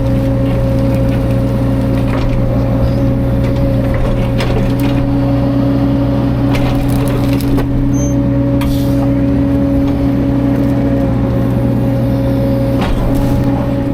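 Caterpillar 305.5 mini excavator's diesel engine running steadily under load, with several sharp cracks and crunches of wood as logs are handled, mostly in the middle and again near the end.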